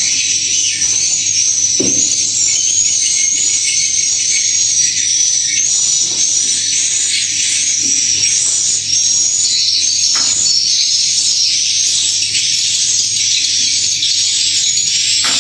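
Continuous high-pitched twittering of many swiftlets, with a couple of faint knocks about two seconds and ten seconds in.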